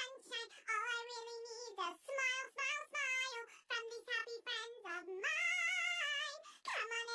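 A high-pitched voice singing a melody in short phrases, the held notes wavering with vibrato, with one long held note about five seconds in.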